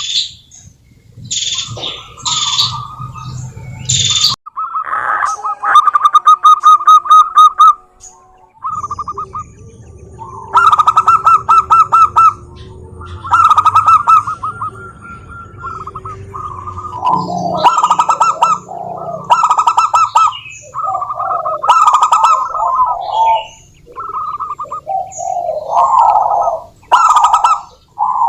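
Zebra doves (perkutut) singing: repeated bursts of rapid, stuttering cooing notes, each about a second long. The bursts come closer together and overlap in the second half, as if several birds are calling at once.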